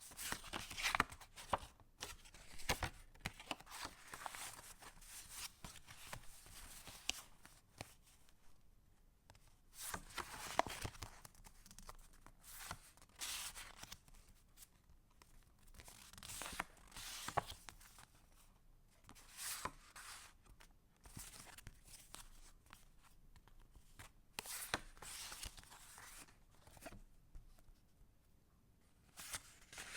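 Paper pages and inserts of a handmade junk journal rustling and crinkling as they are handled and turned. The rustling comes in irregular spells with short pauses between them, and there are a few sharp taps.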